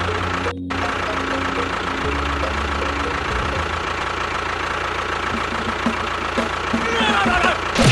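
An engine idling steadily with a low, even hum, broken by a brief dropout about half a second in. A few short rising chirps come near the end.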